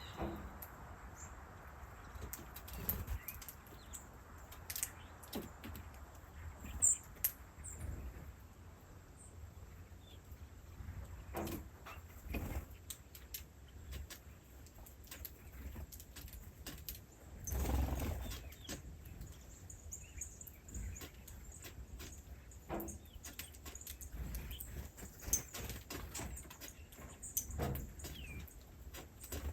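Small birds chirping in short, scattered calls, with occasional light rustles and knocks.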